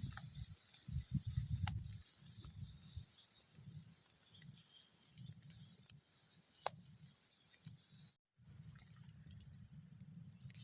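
Campfire crackling with scattered sharp pops, while birds chirp faintly. The sound cuts out completely for a moment about eight seconds in.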